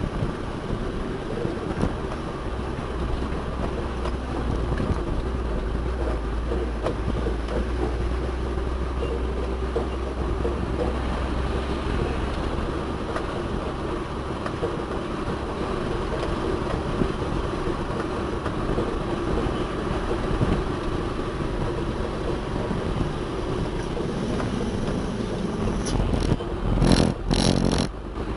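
Heavy diesel machinery running steadily. A few seconds in, a deeper low rumble sets in for about ten seconds. Near the end come several loud clanks.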